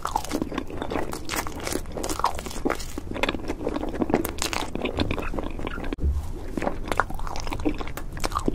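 Close-miked bites and chewing of a grilled marshmallow, then of an ice cream sandwich after an abrupt break about six seconds in: a dense run of small crisp crackles with wet mouth sounds.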